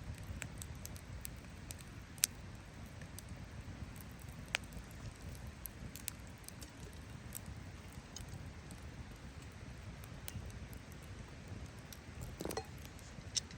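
Wood campfire burning with a low, steady rumble and scattered sharp crackles and pops, the loudest about two seconds in. A brief hiss from the fire comes near the end.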